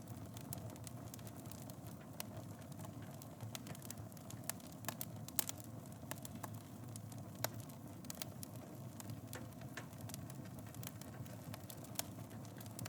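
Wood fire burning in a fireplace: a steady low rumble of flames with irregular sharp crackles and pops from the burning wood, a few louder snaps among them.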